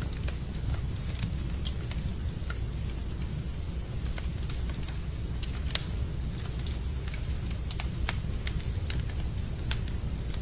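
Wood fire burning in a fireplace, crackling with irregular sharp pops over a steady low rumble; one pop a little over halfway through stands out as the loudest.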